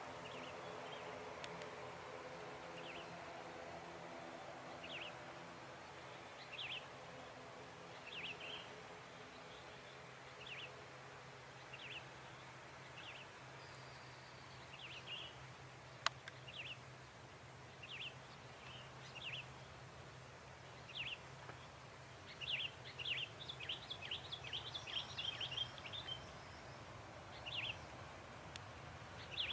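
Small birds chirping: short high calls a second or two apart, running into a quick flurry of them about three quarters of the way through. Underneath, the faint low hum of a passing jet airliner's engines fades away over the first several seconds.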